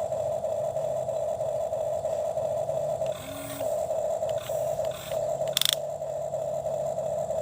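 Toy excavator's small electric motor whining steadily as it digs, briefly changing pitch about three seconds in, with a sharp click a little after five seconds.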